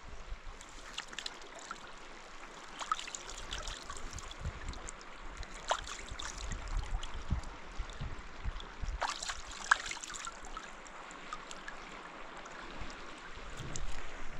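Running water trickling and gurgling, with scattered small splashes and clicks.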